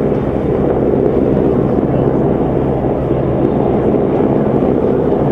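Aircraft engine running with a steady drone, even in level throughout.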